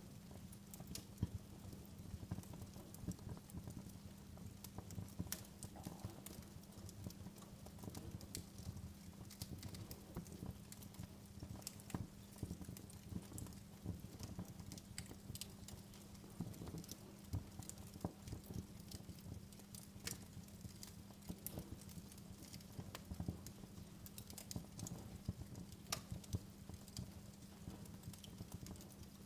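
Wood fire in a fireplace crackling, with frequent irregular sharp snaps and pops over a low steady rumble.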